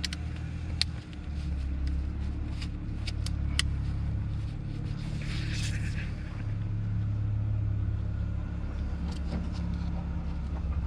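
A steady low engine-like rumble, with a few sharp clicks in the first few seconds and a brief hiss about midway.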